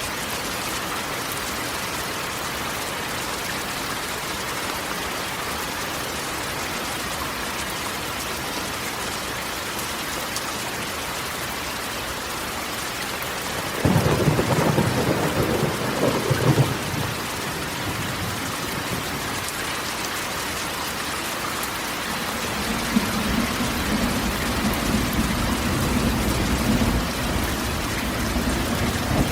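Rain falling steadily on a corrugated metal roof, with a sudden crack of thunder about halfway through and a long, low rumble of thunder building near the end.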